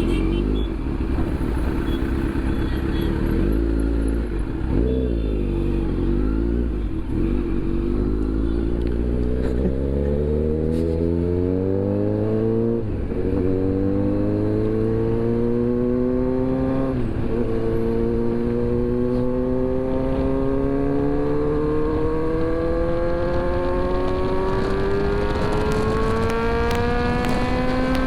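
Motorcycle engine, the Z900's inline-four, pulling up through the gears under way. Its pitch climbs steadily in each gear and drops at the shifts about five, thirteen and seventeen seconds in. It then rises slowly for a long stretch before another shift near the end.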